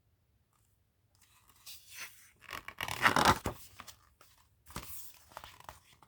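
Paper rustling and sliding as a picture book's page is handled and turned, in several bursts, loudest about three seconds in.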